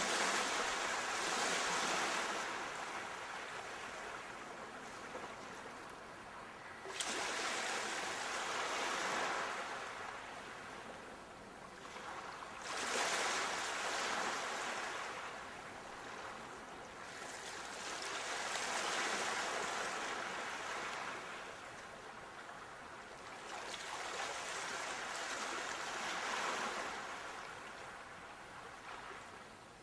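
Sea waves breaking and washing up the shore, about five surges, one roughly every six seconds, each swelling quickly and fading away.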